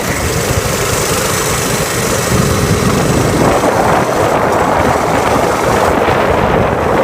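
Mini bike running at speed on a dirt road, its small engine nearly buried under heavy wind rumble on the microphone.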